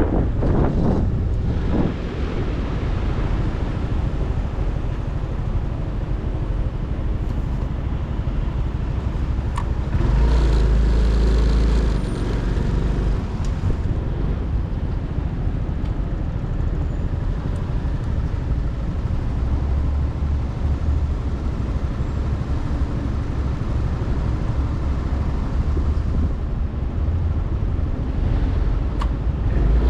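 Motorcycle engine running steadily on the move, mixed with road and wind noise on the microphone. A louder low rumble swells about ten seconds in and again in the last third.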